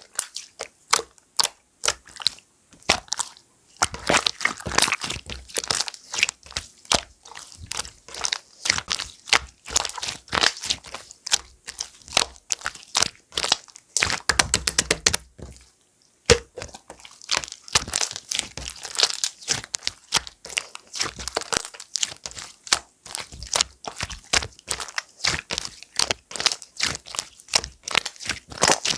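Clear slime being squeezed and pressed by hand, giving a dense run of sharp crackling clicks, with a brief pause about sixteen seconds in.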